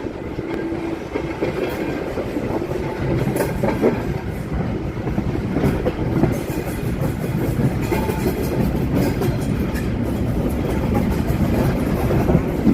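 Train running along the track: a steady rumble with the wheels clicking over the rail joints.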